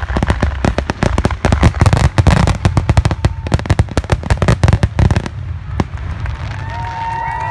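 A fireworks display firing a rapid barrage of aerial shells, with bursts and crackles coming several times a second. The bursts stop about five seconds in and give way to a steady rumble for the last couple of seconds.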